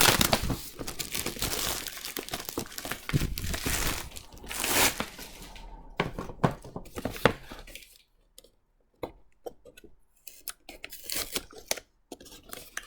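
Packaging of a comic blind box being torn open and crinkled by hand: continuous tearing and rustling for about six seconds, then scattered crackles and light handling taps with short pauses.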